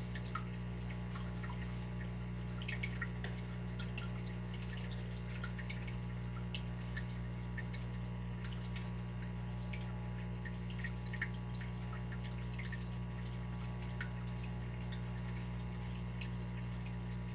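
Water dripping: small, irregular drops falling over a steady low hum.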